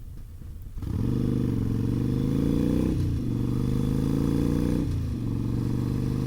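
Harley-Davidson V-twin motorcycle engine pulling hard and accelerating, its pitch climbing through the gears, with a drop at an upshift about three seconds in and another about five seconds in.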